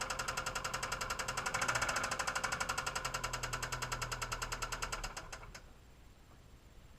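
2002 Subaru Impreza WRX's turbocharged flat-four running with a rapid, regular knock, about ten a second: rod knock. The engine shuts off a little past five seconds in.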